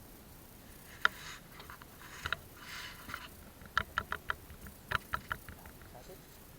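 Water splashing around a small boat with short runs of sharp knocks, one about a second in and quick groups of three or four near the middle and later, as of wood or a paddle knocking against the hull.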